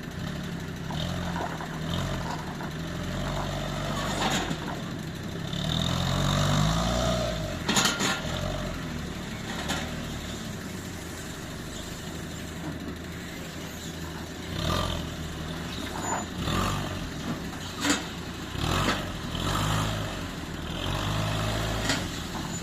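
A vehicle engine running, its revs rising and falling, with a few sharp metallic knocks along the way.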